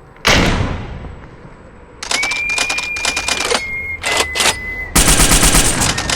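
A sudden whoosh-like hit that fades away, then about two seconds in a fast, rattling run of clicks with a thin steady high tone over it, growing louder about five seconds in.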